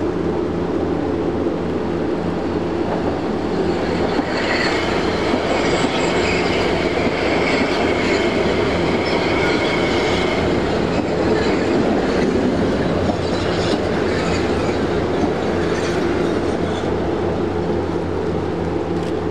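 A train passing close by with a loud, steady rumble and wheel clatter, and a high-pitched squeal from about four to eleven seconds in.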